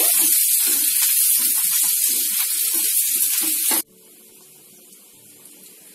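Sliced onions, ginger and garlic sizzling in hot oil in a non-stick pan, being fried until the onions start to colour. The loud sizzle cuts off suddenly a little under four seconds in, leaving only a faint background hum.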